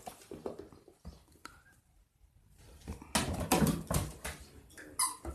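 A puppy playing: a few faint clicks, then about three seconds in a burst of scuffling and mouthing noise, and a short high squeak near the end.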